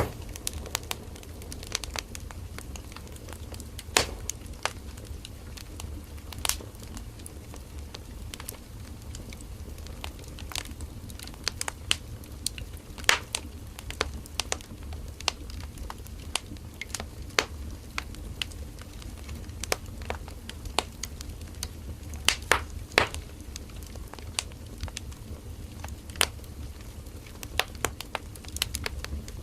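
Firewood burning in a campfire, crackling and popping with sharp irregular snaps over a steady low rumble of the flames.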